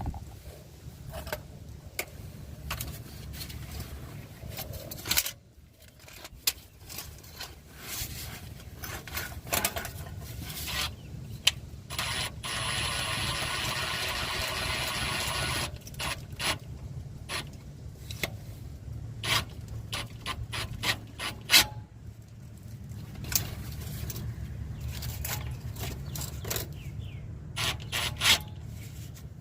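Rusty exhaust pipe being scraped and brushed clean to bare metal for welding: irregular rasping scrapes, with a steadier noise for about four seconds around the middle.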